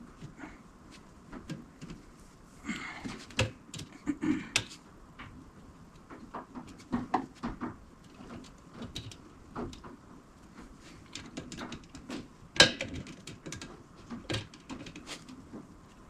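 Scattered light clicks, taps and knocks of hand work, with a brief scraping rustle about three seconds in and one sharp, louder click about twelve and a half seconds in.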